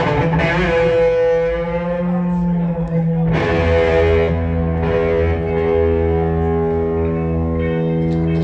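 Electric guitar through distortion playing long sustained chords over a low bass line, with the chord struck afresh about three seconds in and again a couple of seconds later.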